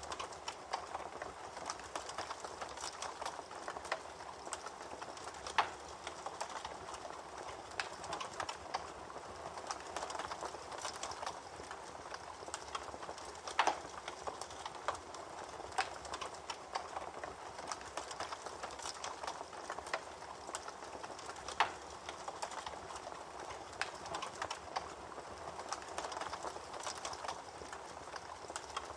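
Campfire burning with steady crackling and irregular sharp pops, a few louder snaps standing out about every eight seconds.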